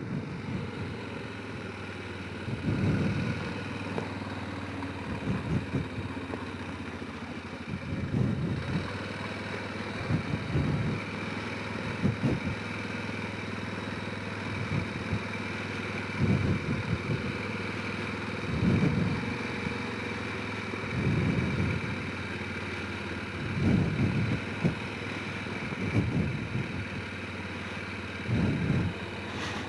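Honda Rincon 650 quad's single-cylinder four-stroke engine running at a steady, low speed, with low thumps every few seconds.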